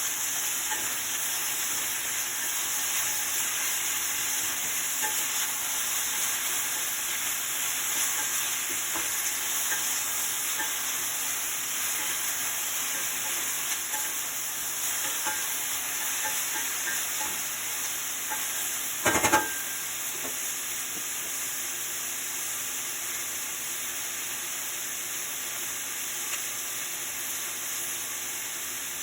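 Food sizzling in oil in a frying pan with a steady hiss, stirred with a utensil that clicks lightly against the pan. A single loud knock of the utensil on the pan comes about two-thirds of the way through.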